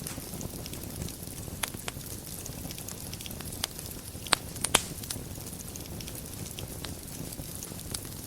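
Wood fire burning in a fireplace: a steady low rumble and hiss with scattered crackles, and a few sharper pops a little past the middle.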